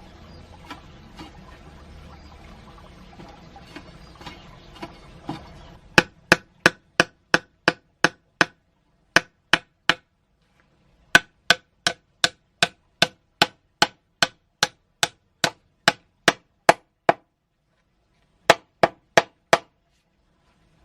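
Sharp, ringing hammer blows at about three strikes a second, in four runs with short pauses between. A few softer knocks come first over a faint steady hiss.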